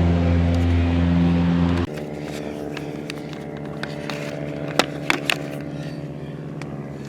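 A loud, steady engine drone that cuts off abruptly about two seconds in. It leaves a quieter steady hum with a few sharp clicks and taps.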